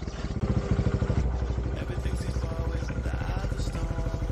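Off-road motorcycle engine running at low revs as the bike creeps down a rocky trail, with a quick, even chugging of firing pulses that picks up a little about half a second in.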